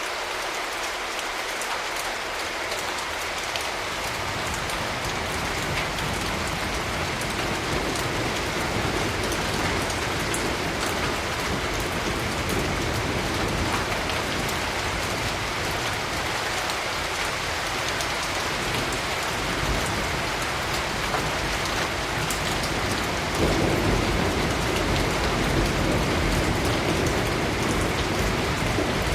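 Steady rain falling, with low rumbles of distant thunder underneath that swell louder about three-quarters of the way through.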